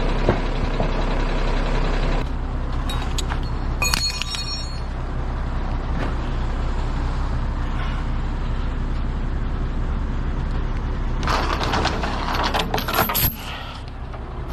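Large truck diesel engine running steadily, its note shifting about two seconds in, with bursts of metal clinking and clattering a few seconds in and again near the end.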